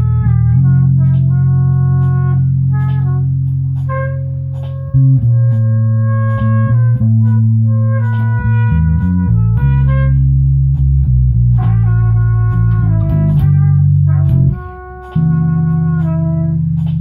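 Instrumental jam music: a loud, sustained bass line under a melodic lead of long held notes, the bass dropping out briefly near the end.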